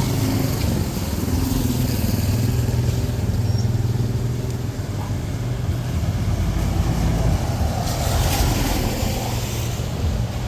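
A motor vehicle's engine running steadily close by, with a hiss that swells briefly about eight seconds in.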